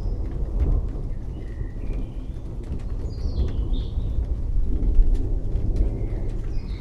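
Rain falling with a continuous low rumble of distant thunder, individual drops ticking now and then. Forest birds chirp in short phrases twice, around the second and third seconds.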